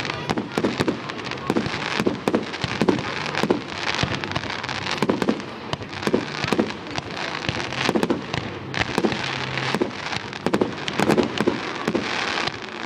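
Fireworks going off in a continuous barrage: many sharp bangs and crackles, several a second at irregular intervals, over a steady hiss.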